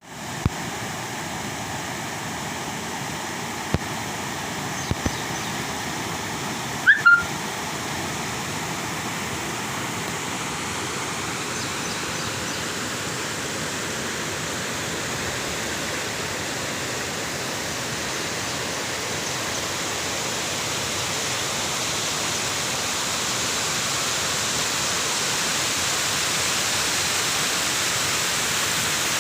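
Steady rushing noise of water, growing slightly louder toward the end. A few sharp clicks sound in the first five seconds, and a short high chirp comes about seven seconds in.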